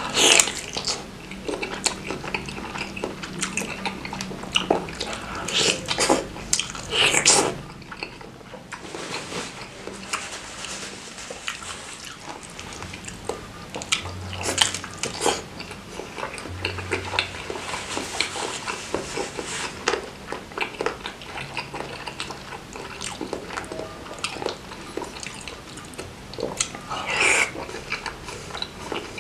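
Close-miked eating of a beef tendon meatball (bakso urat) coated in spicy sambal: wet biting and chewing with many small clicks, the gristly tendon bits giving a chewy, crunchy texture. Louder bursts of mouth noise come near the start, a few seconds later and again near the end.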